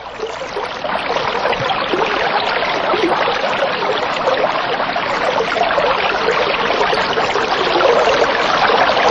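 Water running steadily, an even trickling and splashing that fades in over the first second.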